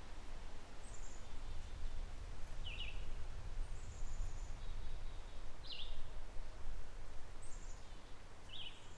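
Small songbirds chirping: short, high call notes that recur about every three seconds, over a low steady rumble of outdoor background.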